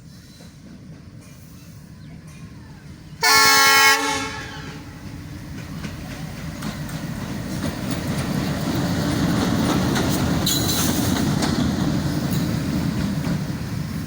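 Indian locomotive horn sounding one short, loud blast. A train then runs past close by, its rumble and wheel clatter on the rails growing louder and staying heavy.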